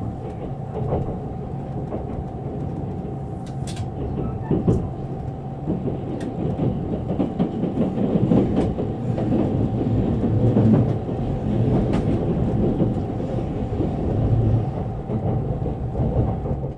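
Rolling noise inside a JR East E657 series limited express train: a steady rumble of wheels on rail with scattered clicks and knocks from rail joints and points. It grows louder for a few seconds about eight seconds in, as another train passes close alongside.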